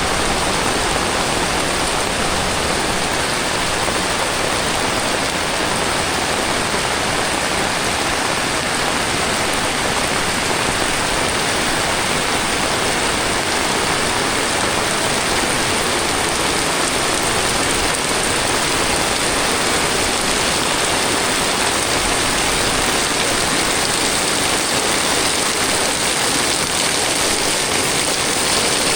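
Heavy tropical rain falling steadily, a dense even hiss of rain on surfaces.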